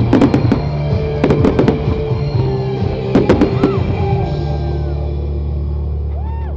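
Fireworks going off in a quick run of bangs and crackles over loud music, the bangs dying away after about four seconds and leaving the music.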